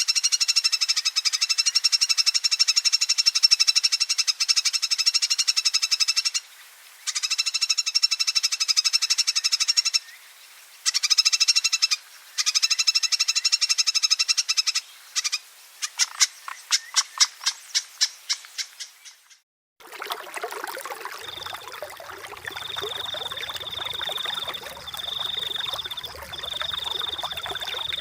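Oriental magpie-robin (kacer) giving a long harsh chattering 'ngekek' call, broken by a few short pauses and slowing near the end into separate rattling notes. After a moment of silence, flowing water hisses steadily, with a high steady note repeating over it.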